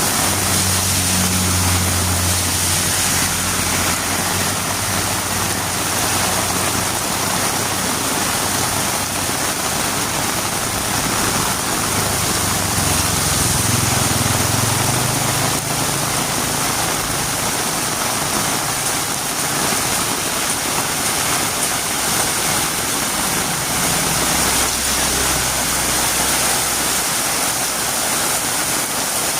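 Heavy rain falling steadily, a dense even hiss. A low engine-like hum underneath swells and fades three times: at the start, around the middle and near the end.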